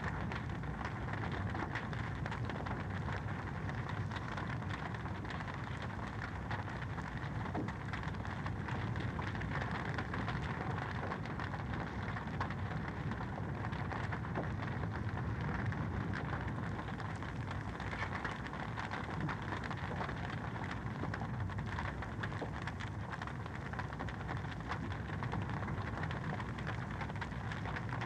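Wood fire crackling in a fireplace: a steady dense hiss with many small pops and snaps throughout.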